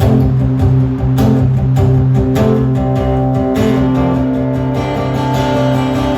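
Acoustic guitar strummed in a steady rhythm, the instrumental intro of a song before the vocals come in.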